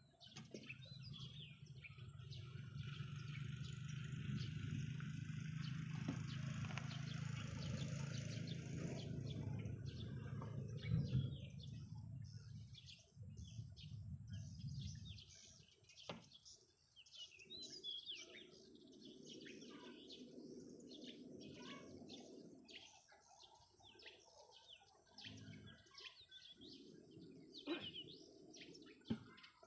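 A low steady drone swells and fades over the first half, with a high hiss over it. Then birds chirp with many short, quick calls through the second half.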